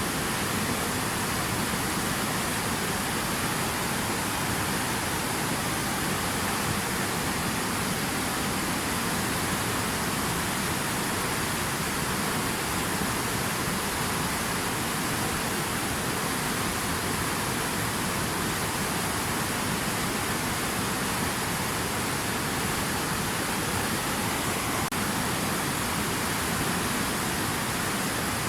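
Water rushing steadily: a dense, even noise with no separate drops, splashes or breaks.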